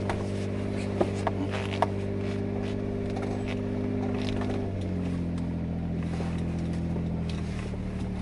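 Suzuki Jimny's engine idling steadily, its pitch dropping slightly about five seconds in as the idle settles lower. A few light clicks come in the first two seconds.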